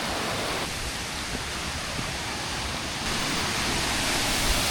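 Steady rushing of water, an even noise with no distinct events, shifting slightly in tone twice.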